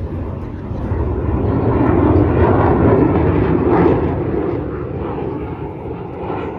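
An airplane's engine noise passing by during an air show display, swelling to a peak about two to four seconds in and then fading.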